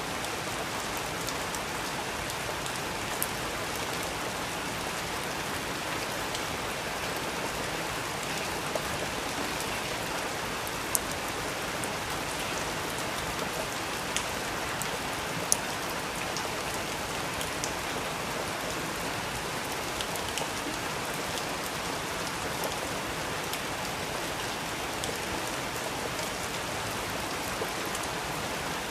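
Steady rain, an even hiss with a few sharp ticks scattered through it.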